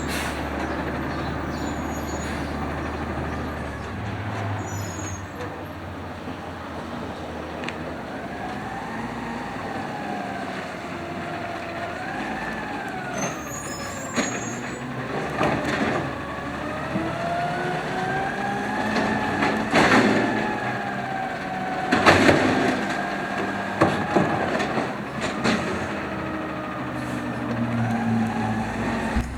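Automated side loader garbage truck working: its engine runs while the hydraulics whine, rising and falling in pitch, with several sharp bangs of metal and bins.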